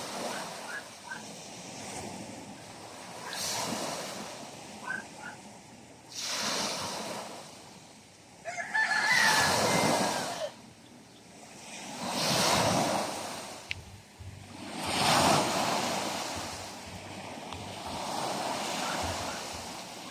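Sea waves breaking and washing up the shore in surges every few seconds. A rooster crows once about nine seconds in, over the loudest wave.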